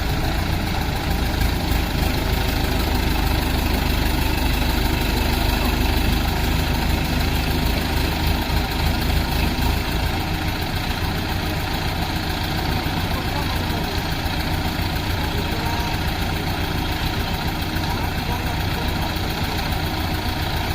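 Heavy diesel engine of a construction machine idling steadily, its low rumble easing slightly about halfway through.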